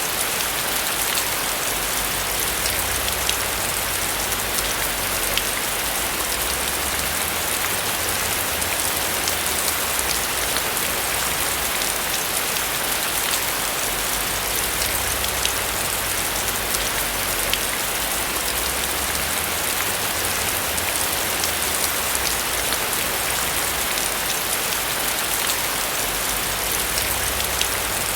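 Steady rain falling on a roof, an even hiss with many small drop ticks.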